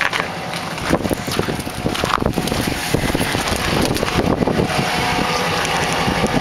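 LBZ Duramax 6.6-litre V8 turbo-diesel idling, with wind buffeting the microphone and irregular knocks over it for the first two-thirds; from about two-thirds of the way in, the engine's steady hum comes through clearly.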